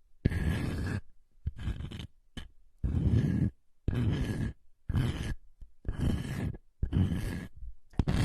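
Close-miked ASMR trigger sound: a run of scratchy, rustling bursts, about one a second, each under a second long with short silent gaps between.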